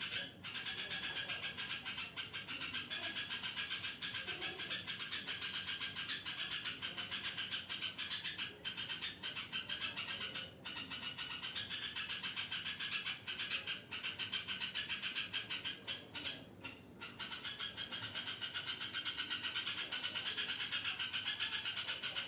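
Yellow-vented bulbul (trucuk) giving an unusual, continuous fast-pulsing churr at night, with a few short breaks.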